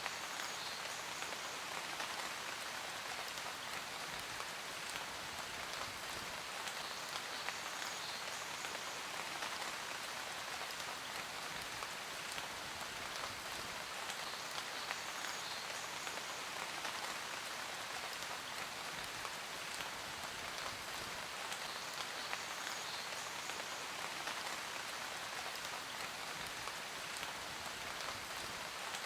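Steady rain falling on surfaces: an even hiss of countless drops with a fine patter, unchanging throughout.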